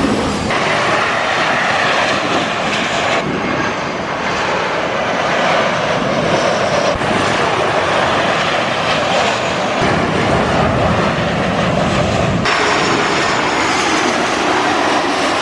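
Jet airliner engines running loud, a dense steady roar of engine and air noise. The sound changes abruptly several times, every few seconds, as separate takes are cut together.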